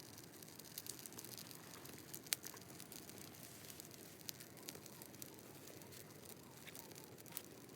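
Small wood campfire crackling, with scattered sharp pops, the loudest about two seconds in.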